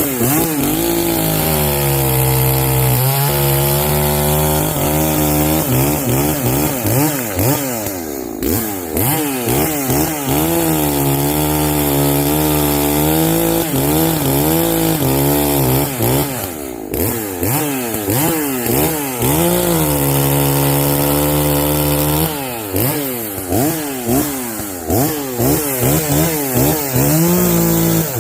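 Echo CS-590 Timberwolf chainsaw, a 59.8 cc two-stroke, cutting wood. It runs at full throttle in several long stretches, its pitch wavering as it works through the cut. Near the end come short, quick blips of the throttle.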